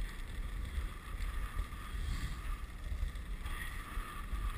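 Wind buffeting the microphone of a moving dog sled, a steady gusting rumble over a faint even hiss from the sled gliding over snow.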